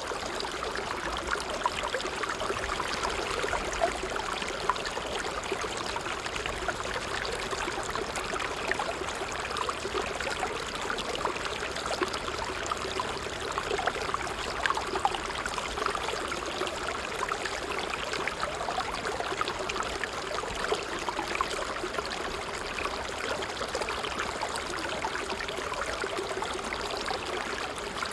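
Water trickling steadily, a continuous babble of small splashes and drips.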